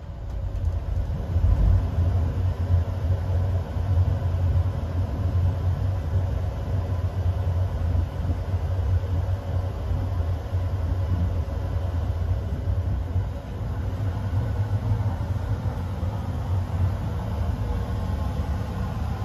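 PKP Intercity compartment coach running at speed, heard from inside: a steady low rumble of wheels on the track. It grows louder just after the start and then holds even.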